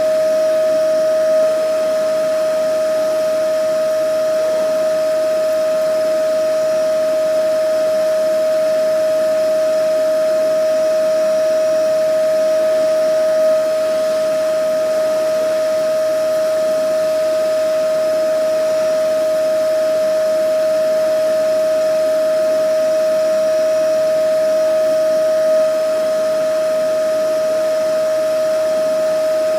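Vacuum cleaner motor running continuously: a steady airy rush with a constant high-pitched whine, unchanging apart from a slight bump about every twelve seconds.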